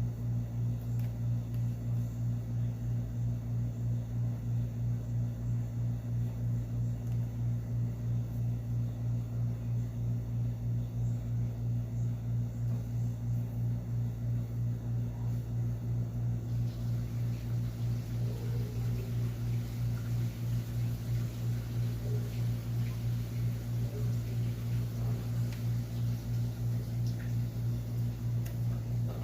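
Steady low hum with an even, fast pulse in its loudness, and a few faint ticks in the second half.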